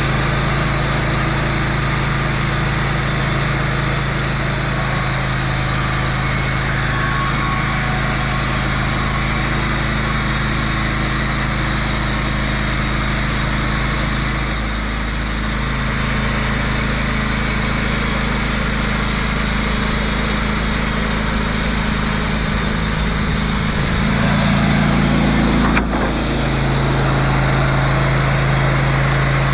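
An engine running steadily at a constant speed, with a brief dip about halfway and a change in its note near the end, marked by one sharp click.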